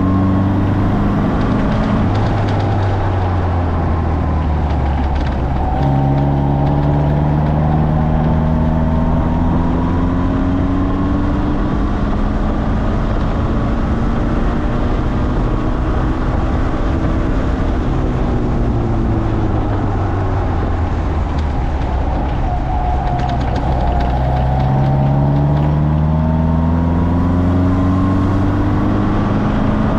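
Morgan sports car's engine heard onboard, driven hard on a sprint circuit: it runs steadily, then rises in pitch under acceleration twice, about a fifth of the way in and again near the end, with road and wind noise throughout.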